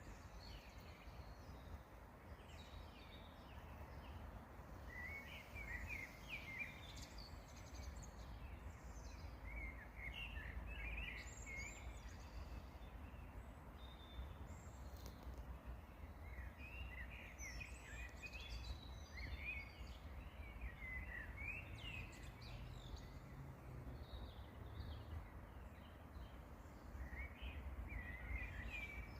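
Songbirds chirping and singing in short, scattered phrases, faint, over a steady low rumble.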